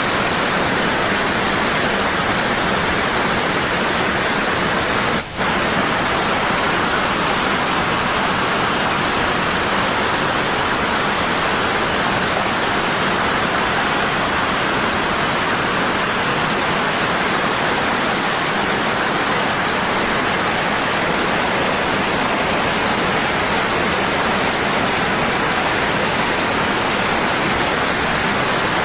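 Waterfall, water falling strong and constant in a steady, even rush, with a brief drop in level about five seconds in.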